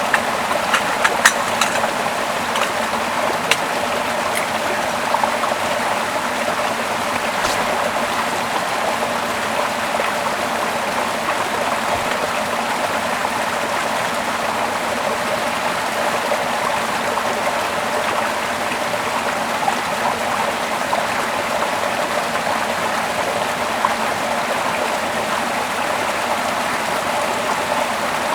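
Running water of a small stream, a steady, even rush, with a few light, sharp clicks in the first several seconds.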